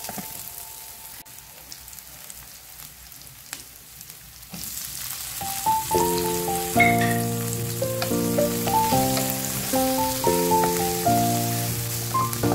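Onions, garlic and mushrooms sizzling in a hot frying pan as they are stirred with a wooden spatula. Background music with a melody comes in about five seconds in and is louder than the sizzling from then on.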